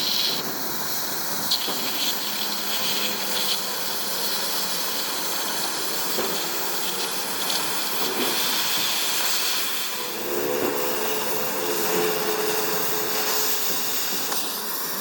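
Steady hissing rush of workshop equipment working on the wrench, with a faint steady hum joining about ten seconds in.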